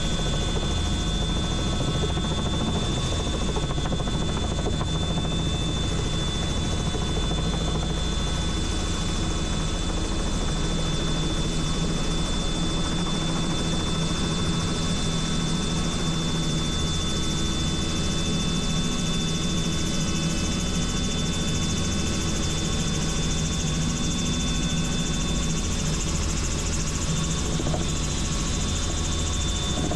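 Helicopter running steadily in flight, its engine and rotor noise a constant drone with a steady high whine from the turbine and gearbox.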